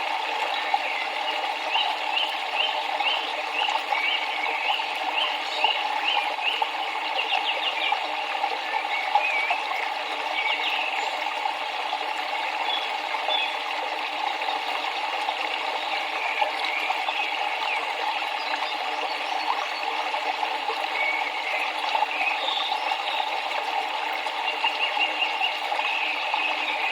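River water flowing steadily. Over it, birds chirp in short repeated notes: a quick run of chirps in the first several seconds, scattered calls after, and another short run near the end.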